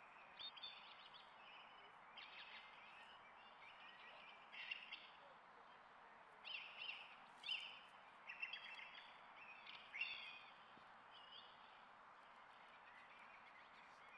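Small songbirds chirping and singing in short, high phrases over a faint steady background hiss; the calls thin out after about eleven seconds.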